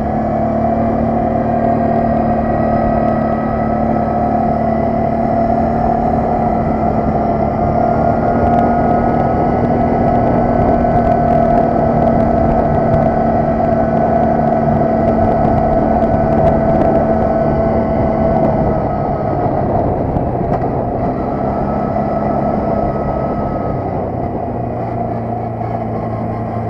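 ATV engine running steadily while riding, its note holding high through the middle and easing off a little about two thirds of the way in.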